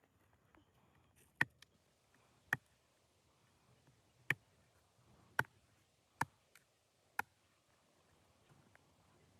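Six sharp, short taps or knocks at uneven intervals over a faint low background rumble.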